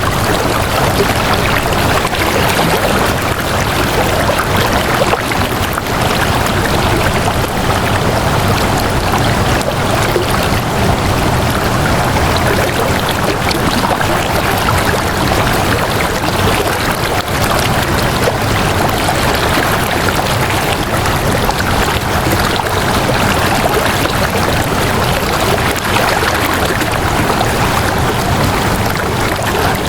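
Flowing water running steadily: a continuous rush with no breaks or changes in level.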